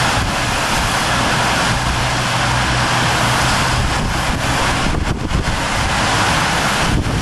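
Storm wind blowing hard, a loud steady rushing with a low rumble of wind buffeting the microphone.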